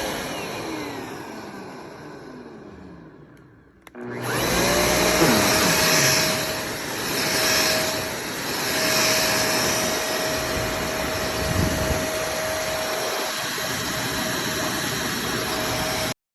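Handheld mattress vacuum (Jimmy JV35) motor spinning down after being switched off, fading almost to nothing. About four seconds in it is switched on again: the whine rises quickly and settles into a steady run, then cuts off suddenly near the end.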